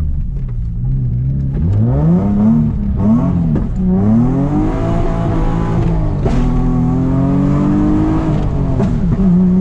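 Nissan 350Z's tuned, bolt-on-modified VQ35DE V6 heard from inside the cabin under hard throttle. The revs rise and fall sharply three times, then climb in one long pull before dropping back near the end.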